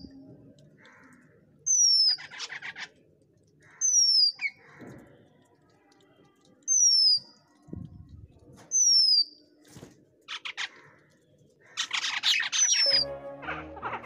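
Birds calling: a short, sharply falling whistle repeats five times, about every two seconds, with bursts of harsh chattering in between. The longest chattering comes near the end.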